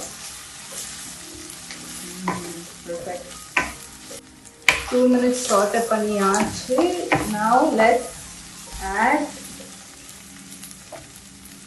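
Sliced onions, green chillies and ginger-garlic paste sizzling in oil in a nonstick kadai while a wooden spatula stirs and scrapes them through the pan. A person's voice is heard for a few seconds in the middle.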